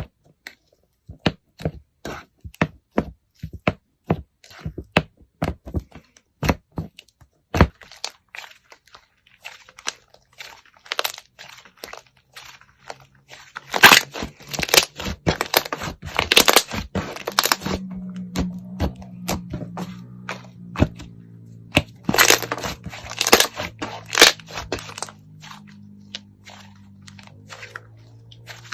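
Crunchy slime being pressed and squeezed by hand, giving a run of sharp crackles and pops. About halfway through, louder bursts of dense crunching take over, with a steady low hum beneath them.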